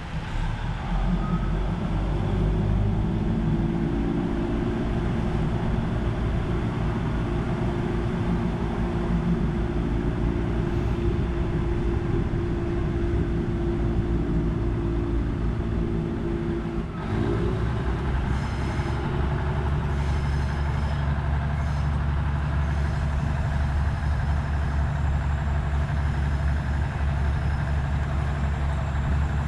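Diesel passenger train pulling away from a station, heard from on board: a steady engine hum under the rumble of the moving carriages. About 17 seconds in the note dips briefly, then settles into a lower, heavier drone as the train gathers speed.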